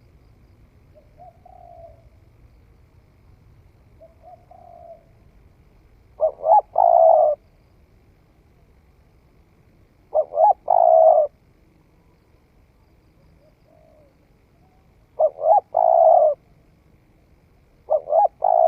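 Spotted dove cooing: four loud phrases about four seconds apart, each two short notes followed by a longer one. Fainter, shorter coos come in between.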